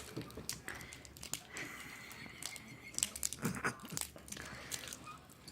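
Faint crinkling with scattered light clicks, as of something being handled.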